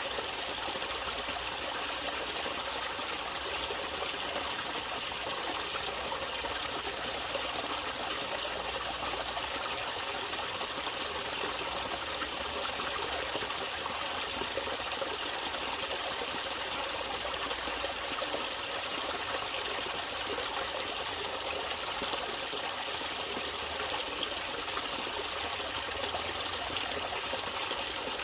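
Natural running water flowing steadily.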